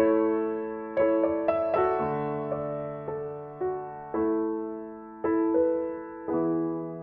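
Soft background piano music: gentle chords and single notes struck about once a second, each fading away before the next.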